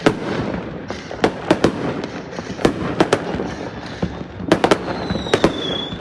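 New Year fireworks going off: a continuous crackling rumble of bursts with about a dozen sharp, close bangs, several in quick clusters. A thin high whistle sounds over them for about a second and a half near the end.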